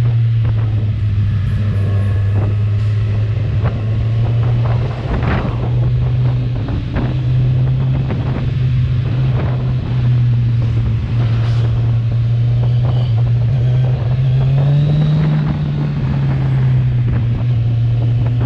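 Kawasaki Z1000R's inline-four engine through its stock exhaust, running at a steady cruise under way. The engine note holds nearly constant, rising a little and settling again around three-quarters of the way through.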